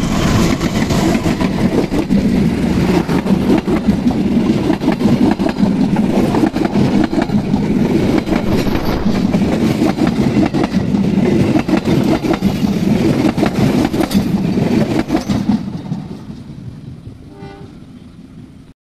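Passing KAI diesel locomotive and passenger coaches close by, steel wheels rattling over the rails in quick clicks. The noise fades away from about sixteen seconds in as the train moves off.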